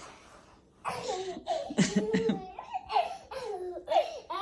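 A young child laughing in a run of short, high bursts, starting about a second in.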